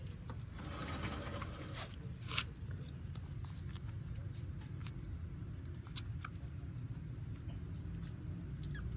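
Faint squeaks of newborn puppies amid rustling and scattered small clicks, over a steady low hum; a burst of rustling comes about a second in.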